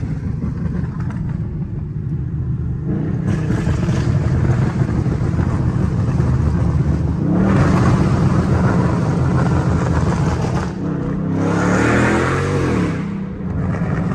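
A loud V8 muscle car exhaust rumbling deep and steady. It gets louder as the engine pulls harder about seven seconds in, and revs up and back down again around twelve seconds in.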